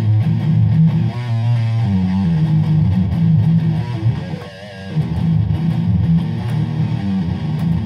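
Electric guitar tuned to drop C# playing the song's outro riff on low notes.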